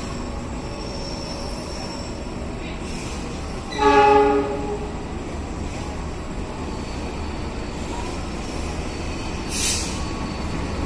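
A train locomotive's horn sounds one short blast of several tones together, about four seconds in, over a steady rumble of trains in the station. A brief hiss follows near the end.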